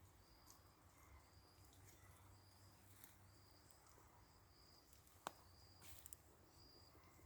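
Faint outdoor quiet with a cricket chirping regularly, a short high chirp about once a second. A single sharp click about five seconds in.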